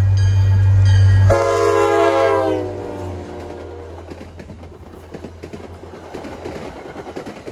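Nathan K5LA horn on an EMD GP40MC diesel locomotive passing at speed, its long blast dropping in pitch as the locomotive goes by about a second and a half in. The engine's rumble cuts off at the same moment. Then the passing coaches' wheels click over the rail joints and fade away.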